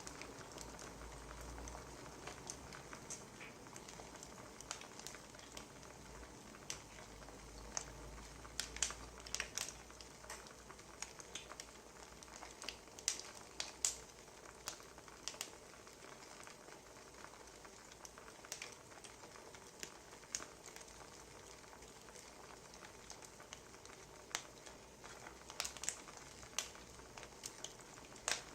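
Wood fire crackling: irregular sharp snaps and pops over a soft, steady hiss.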